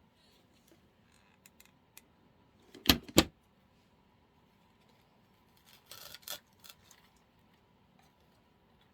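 Two sharp snips close together about three seconds in, then a cluster of softer clicks and rustling a few seconds later: hand cutters clipping the stems of artificial flowers.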